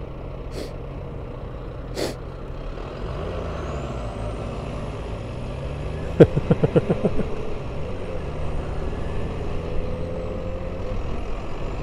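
Motorcycle engine running while riding in traffic, its pitch rising and falling with the throttle. About six seconds in comes a quick run of about six loud, short pulses lasting around a second.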